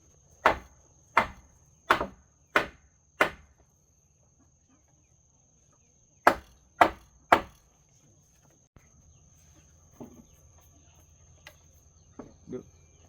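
Hammer blows on timber, knocking a joint of a wooden house frame into place: five evenly spaced strikes, then after a pause of about three seconds three more in quicker succession.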